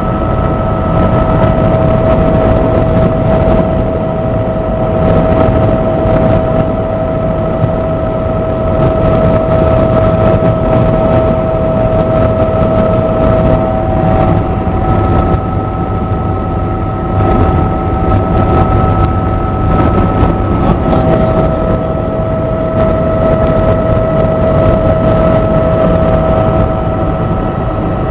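Helicopter in flight: steady, loud engine and rotor noise with a constant high whine.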